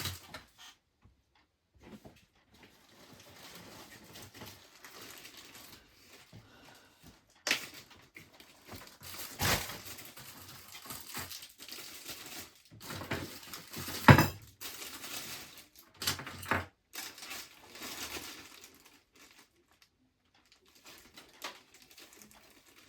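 Items being rummaged through and handled: rustling with a few separate knocks and clatters, one sharp knock about 14 seconds in being the loudest.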